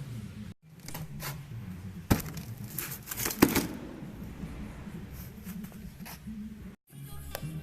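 Sharp metallic clinks and knocks of hand tools at work on a car's rear suspension strut, the two loudest about two and three and a half seconds in, over quiet background music.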